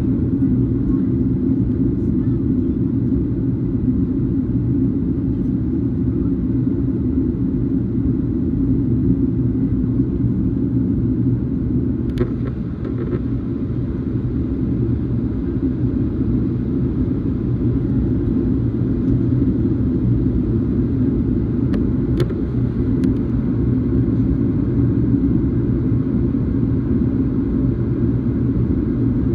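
Steady low drone of a Boeing 737's engines and airflow heard inside the passenger cabin, with a few faint clicks about midway and again later on.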